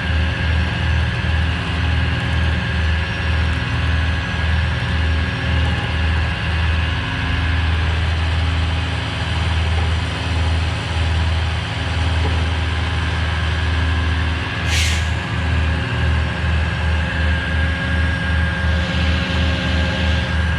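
Heavy tow truck's diesel engine running under winching load, a low rumble that pulses unevenly. A short burst of hiss comes about fifteen seconds in.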